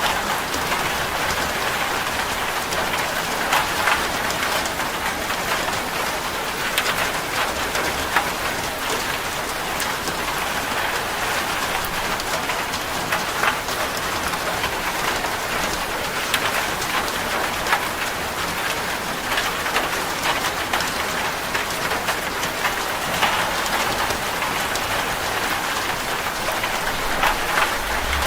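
Steady heavy rain drumming on a corrugated zinc roof, a dense even patter of countless drop ticks.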